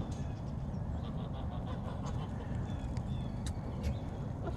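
Backyard chickens and geese making scattered short clucks and chirps over a steady low rumble, with a couple of sharp clicks in the second half.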